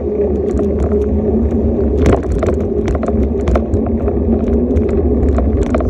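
Steady rumble of a bike rolling along a street, with a constant low hum and many small clicks and rattles throughout.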